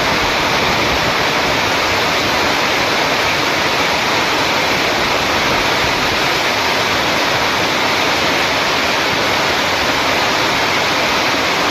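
Steady, dense hiss of heavy rain, even and unchanging throughout.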